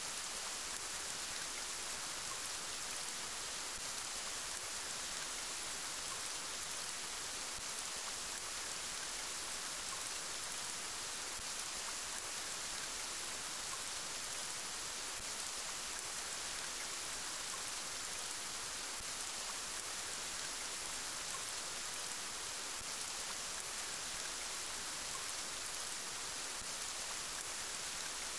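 Steady rainfall, an even hiss of rain that does not change.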